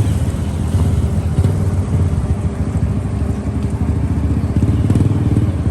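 Sound horeg parade sound system with twelve subwoofers pumping heavy bass: a loud, steady low rumble.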